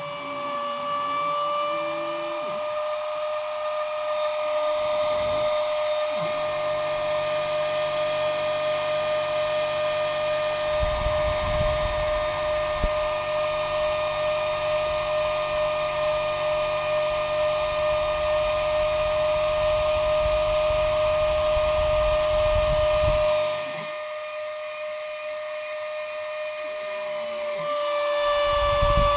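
Homemade Arduino CNC machine running, its motors giving a steady high whine. A rougher low rumble joins about a third of the way in and stops a few seconds before the end, when the machine goes quieter.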